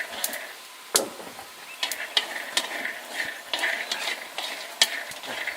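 Utensil stirring and scraping food dry-roasting in a pan, with a light sizzle and irregular sharp clicks of the utensil against the pan.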